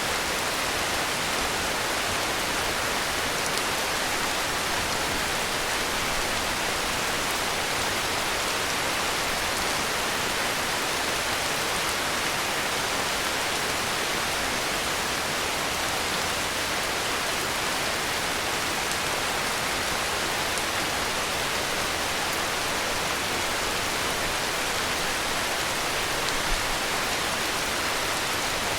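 Heavy rain falling steadily, an even hiss of rainfall, with one brief louder tick near the end.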